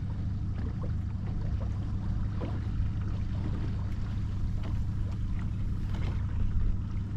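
A small boat's engine running steadily while under way, a low, even drone.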